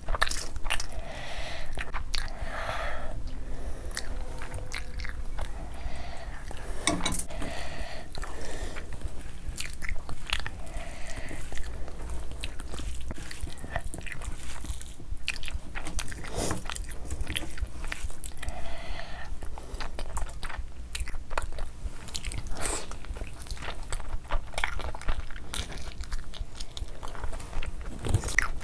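Close-miked chewing and mouth sounds of someone eating a mouthful of rice and curry, with many small wet clicks, plus the sound of a bare hand mixing rice into curry.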